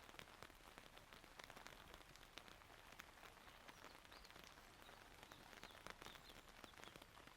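Rain falling steadily, with many close individual raindrops ticking sharply on surfaces.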